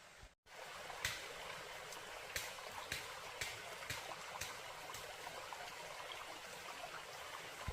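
Steady running, trickling water with light clicks about once a second.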